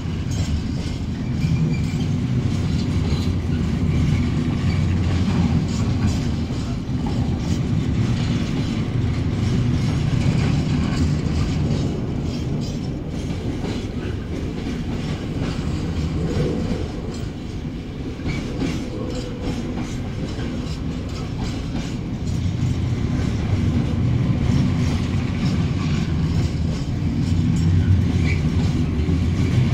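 Freight train wagons rolling past on the rails, a steady low-pitched rumble that dips a little about halfway through.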